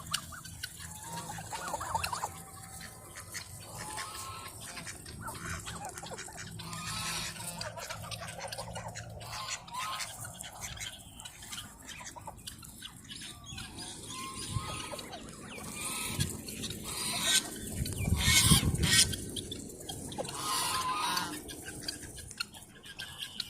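Domestic hens clucking in a series of short calls, with a louder noisy burst about three quarters of the way through.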